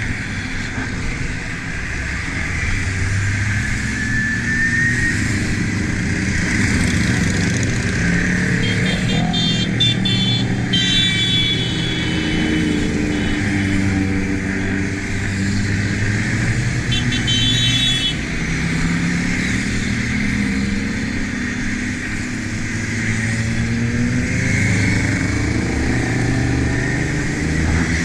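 Motorcycle engine running under way, its pitch rising and falling slowly with speed, over a steady rush of wind noise. Short high-pitched tones sound briefly about ten seconds in and again near eighteen seconds.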